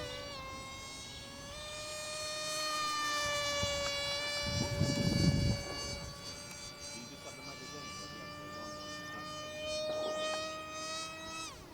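Electric motor and propeller of a small foam RC plane whining in flight at near full throttle, the pitch wavering slightly and falling sharply near the end. A brief low rumble about five seconds in.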